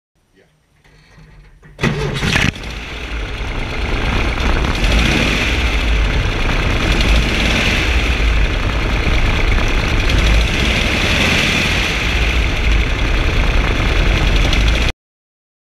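VW Beetle engine starting: faint at first, it catches about two seconds in with a short loud burst, then runs steadily and loudly. The sound cuts off abruptly near the end.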